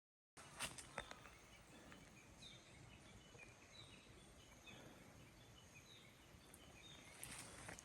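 Faint woodland ambience with a small bird giving short, falling chirps over and over, about two a second. A few faint footsteps land near the start and near the end.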